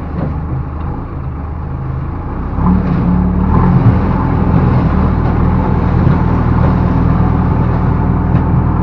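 Backhoe loader's diesel engine running steadily, then revving up about three seconds in and holding at higher revs under work.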